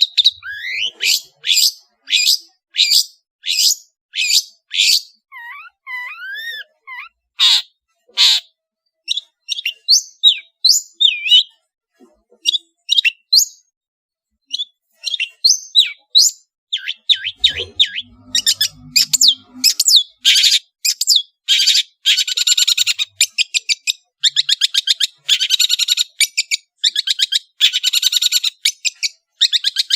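Long-tailed shrike (cendet) singing in full voice. It opens with a run of sharp, evenly spaced high calls about two a second, adds a few gliding whistles, then breaks into fast, dense chattering through the second half.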